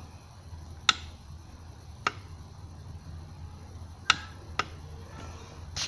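Five sharp clicks, scattered irregularly, over a steady low hum.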